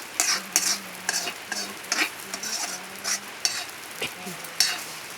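Egg frying in hot oil in a pan, sizzling steadily, while a metal spatula scrapes and taps against the pan in quick irregular strokes as the omelette is stirred and turned.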